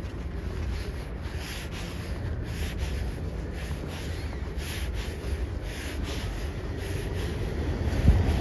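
Footsteps crunching through fresh snow at a steady walking pace, with wind rumbling on the microphone underneath.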